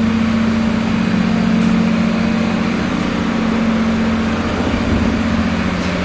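Ferry's engine running with a steady low drone, heard from on board the ship.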